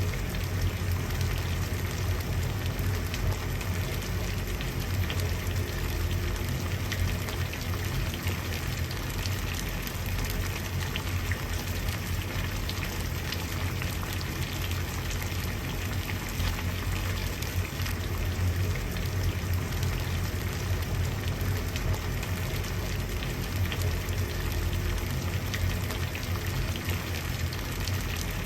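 Water at a rolling boil: a steady bubbling and popping with a low rumble underneath.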